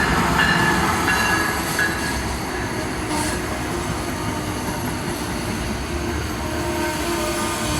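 Amtrak Northeast Regional passenger train pulling into a station behind an ACS-64 electric locomotive, its cars rolling past with a steady rumble. Short high squeals of wheels or brakes sound in the first couple of seconds as it slows.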